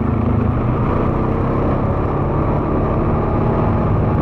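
ATV engine running steadily while riding along a rough dirt road, a low, even drone.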